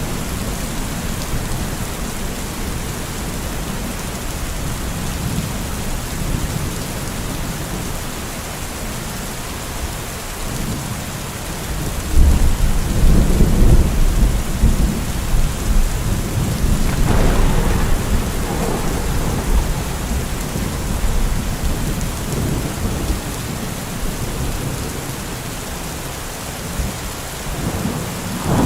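Steady rain with rolling thunder: a deep rumble builds about twelve seconds in, is loudest for a few seconds, and fades away over the next several seconds.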